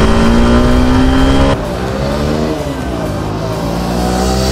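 Hero Xtreme 160R's 163 cc air-cooled single-cylinder four-stroke engine accelerating from a start, its pitch climbing steadily. About a second and a half in the sound drops abruptly to the same engine heard from the roadside. It dips once at a gear change, then climbs again.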